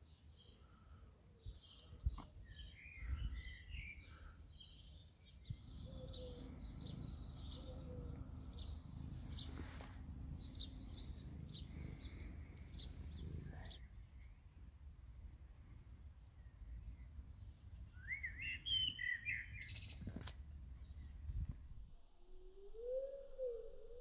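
Small birds chirping in short high phrases, most through the first half and again in a quick rising series near the end, over a low steady rumble.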